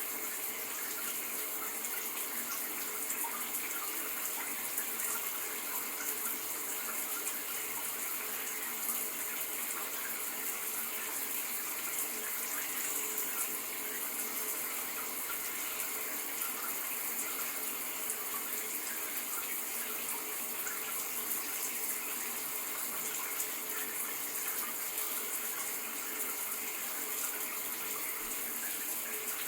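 Shower running steadily: water spraying and splashing with an even hiss, without a break.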